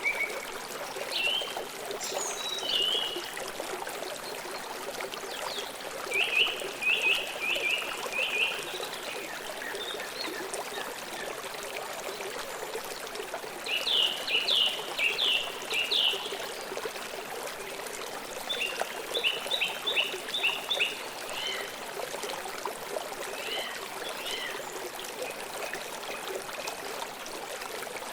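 Forest stream flowing with a steady trickling rush. Birds chirp over it in several bouts of quick, repeated short notes, each bout lasting a couple of seconds.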